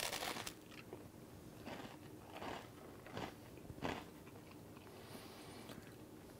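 A person biting into a toasted baguette crostini topped with roasted bone marrow: a crisp crunch at the start, then a few faint crunchy chews spaced under a second apart that die away after about four seconds.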